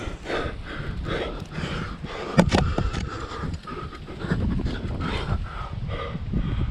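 A climber panting hard, short quick breaths about twice a second, over a low rumble of rubbing and movement, with one sharp click or knock about two and a half seconds in.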